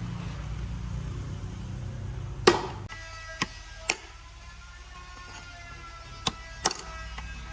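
Metal-on-metal clinks and knocks from tools in a workshop, about six sharp strikes, over a steady low rumble that starts suddenly.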